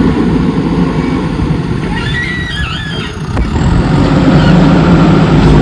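JCB 3DX backhoe loader's diesel engine running under work, a heavy low rumble that eases a little mid-way and then builds louder again near the end.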